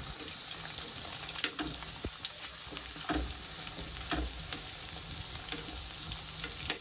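Chicken pakoras deep-frying in hot ghee in a kadai: a steady sizzle, with a metal slotted spoon stirring the pieces and a few sharp clicks against the pan.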